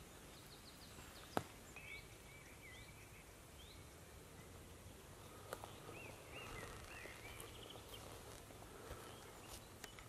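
Faint woodland ambience with small birds chirping in short rising and falling notes, in two spells. A single sharp click about a second and a half in is the loudest sound.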